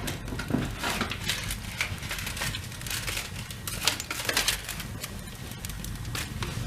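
Irregular crackles and snaps from a fireplace fire being started with paper, cardboard and dried twigs, the sharpest snaps about four seconds in.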